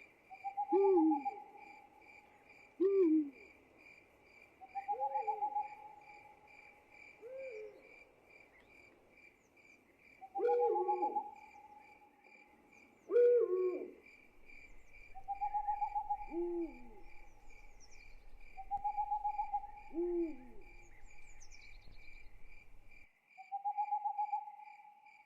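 Night ambience: an owl hooting, short calls every couple of seconds, some falling in pitch and some as short trills, over a steady, fast-pulsing chirping of crickets.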